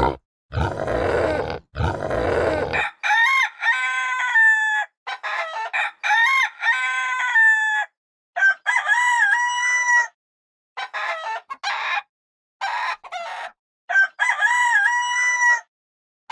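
Pig grunting for the first three seconds or so, then a rooster crowing over and over, about four long crows with shorter calls between them.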